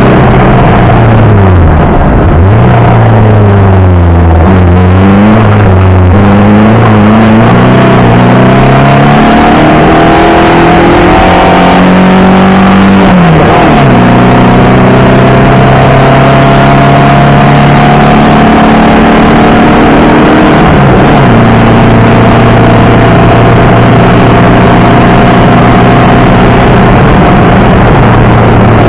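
Loud air-cooled flat-four Porsche Type 4 engine with Weber carburettors, pulling hard in a Beetle 1303 rally car on a hillclimb. The revs dip and rise several times in the first few seconds. They then climb steadily, drop sharply at two upshifts about halfway and about two-thirds through, and pull on again after each.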